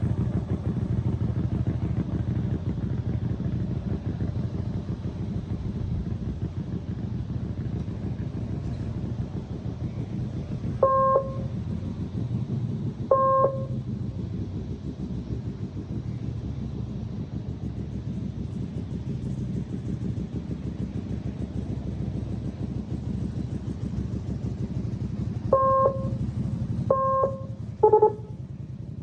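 Motorcycle engine running steadily, easing slightly in level. It is broken by five short electronic-sounding beeps: two a couple of seconds apart midway, then three in quick succession near the end, the last a little lower in pitch.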